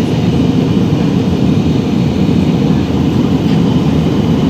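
Steady low cabin noise of a passenger airplane in flight: engine and airflow noise heard from inside the cabin.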